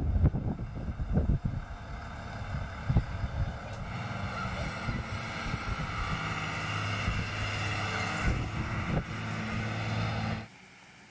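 A motor running with a steady drone, after a few irregular knocks at the start; it cuts off suddenly about ten seconds in.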